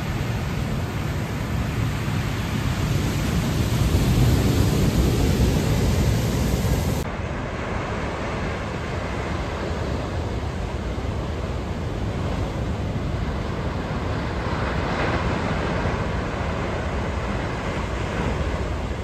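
Stormy sea surf crashing and washing, with strong wind rumbling on the microphone. It swells louder a few seconds in, then changes abruptly about seven seconds in as the high hiss drops away.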